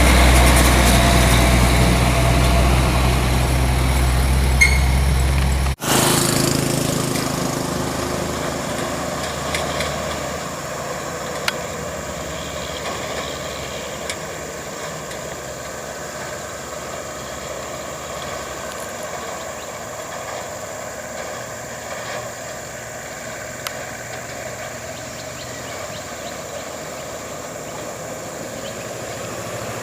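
Heavy logging truck's engine running, loud and close for the first six seconds. After a sudden cut, a quieter, steady engine sound follows.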